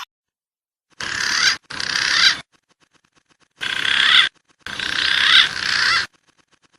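Recorded wild pigeon calls from a bird-lure track for pergam (imperial pigeon), walik (fruit dove) and punai (green pigeon). There are four bursts of calling: two short ones about a second in, then a longer pair from about three and a half seconds, with abrupt silent gaps between them.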